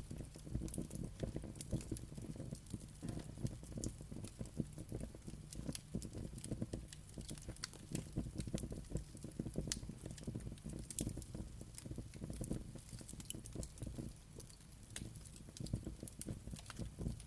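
Wood fire crackling: a dense, irregular run of small pops and snaps over a low steady rumble of the flames.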